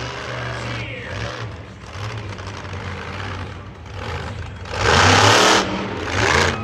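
Monster truck engine running and revving in the arena, with a loud surge of revving just before the last second and a shorter one near the end.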